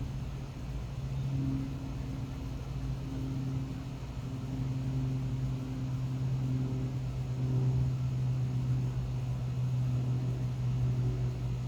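Steady low hum over a low rumble, with fainter higher pitched tones drifting in and out.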